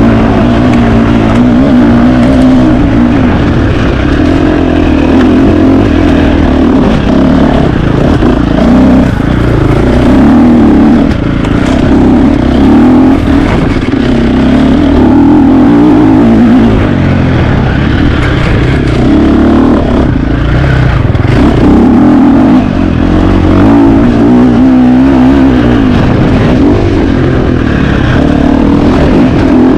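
KTM 350 XC-F single-cylinder four-stroke dirt bike engine, ridden hard and loud, its pitch rising and falling with the throttle as it revs up and backs off over and over.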